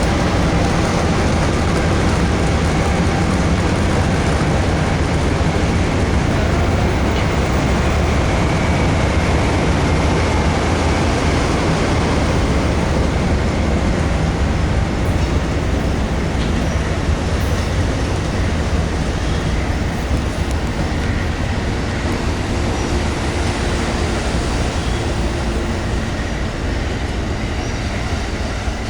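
Amtrak Southwest Chief passenger train pulling out of the station, its cars rolling past with steady, loud rail noise that eases slightly near the end.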